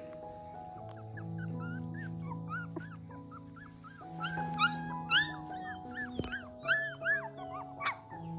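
Young puppies whimpering and yipping in a quick string of short, high-pitched cries, thicker and louder in the second half, over background music with long held notes.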